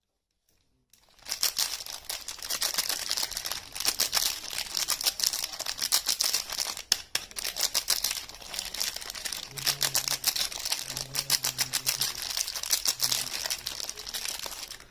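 Soap wrapping crinkling and rustling as it is handled and pulled open: a dense run of small crackles that starts about a second in.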